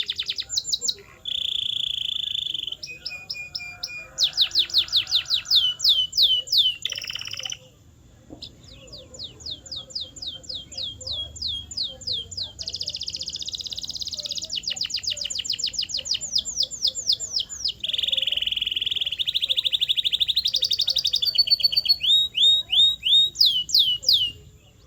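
Domestic canary singing a long rolling song: fast trills of rapidly repeated falling notes, switching every second or two between high sweeping runs and lower buzzy held phrases, with a short break about seven and a half seconds in.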